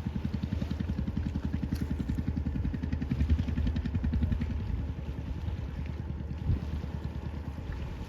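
An engine running nearby with a rapid, even low chugging, which drops in level about four and a half seconds in and carries on more quietly.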